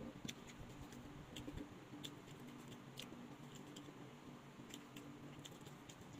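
A person chewing skewered barbecued chicken, with a scatter of soft, sharp mouth clicks at irregular times over a low steady hum.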